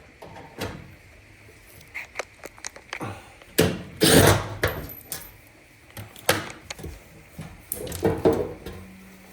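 Clicks, knocks and clatter of metal panels, fasteners and tools being handled while a clothes dryer is taken apart, with one loud knock about four seconds in and another cluster of knocks near the end.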